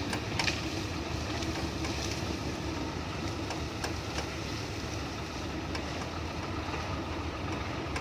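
Diesel engine of a Hino F18 ten-wheel truck loaded with sugarcane, running steadily, with a few short sharp knocks or clicks over it.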